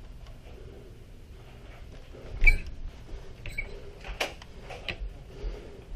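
A few short, sharp clacks and knocks over a low steady background, the loudest about two and a half seconds in.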